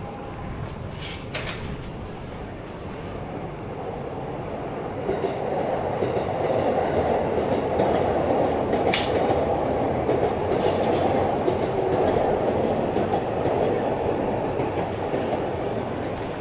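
A train passing: its rumble builds over a few seconds, holds, then eases off near the end, with a few sharp clicks over it.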